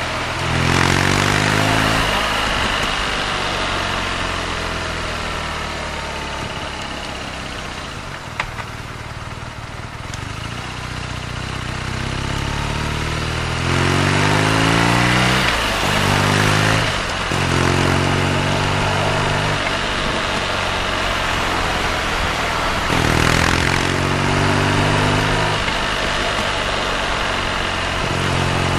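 BMW R nineT's boxer twin engine heard from on the motorcycle: revs rise through a gear change in the first couple of seconds, then fall away to a quieter stretch while the bike slows, before it accelerates again through several gear changes about halfway through and once more near the end. A steady rush of wind noise runs underneath.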